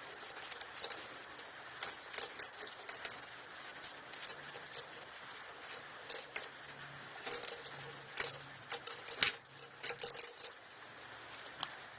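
Metal hand tools and engine parts clinking and tapping during the strip-down of a Lister SR3 diesel, as scattered small clicks with one sharp metallic knock about nine seconds in.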